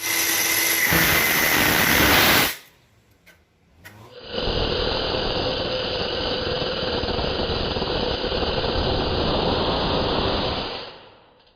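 Bosch GWS 18V-LI cordless angle grinder: a loud, harsh burst with a steady whine that stops abruptly after about two and a half seconds, then, after a couple of small clicks, the motor starts up about four seconds in, runs steadily with a high whine and winds down near the end.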